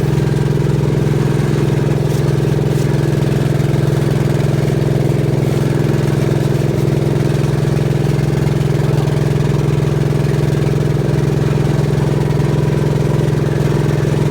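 Gravely garden tractor engine idling steadily at an even speed.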